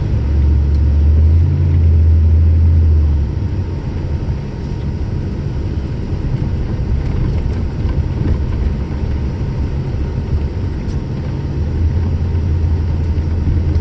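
Inside a truck's cabin, the engine and tyres making a low rumble while driving over snow-covered road. The rumble is louder for the first three seconds and swells again near the end.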